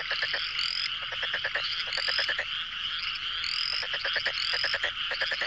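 A chorus of frogs calling: overlapping rapid pulsed trills, with short rising chirps repeated every second or so over a steady high-pitched hum of many callers.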